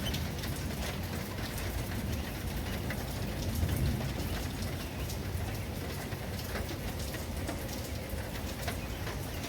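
Steady heavy rain falling on a surface, with scattered individual drops ticking close by, over a low rumble of thunder that swells about three to four seconds in.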